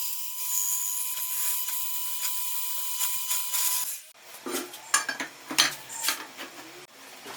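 Workshop tool noise: a steady high hiss with a thin whine, then sharp metallic clinks and knocks of metal parts being handled, with a low hum near the end.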